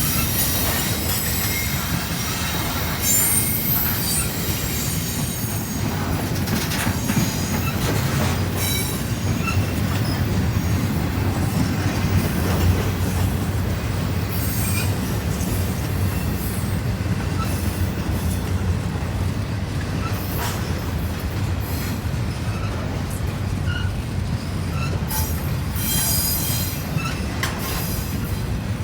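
Norfolk Southern intermodal freight train cars rolling past with a steady low rumble of wheels on rail. Brief high-pitched wheel squeals come and go throughout, with a ringing squeal near the start.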